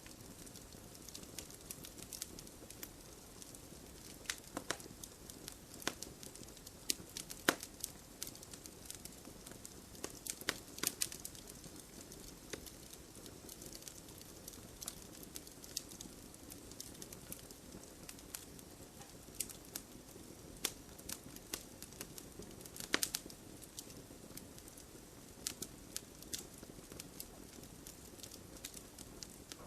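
Wood campfire burning: a steady low rush of flame with irregular crackles and sharp pops, the loudest about seven and a half seconds in and again near twenty-three seconds.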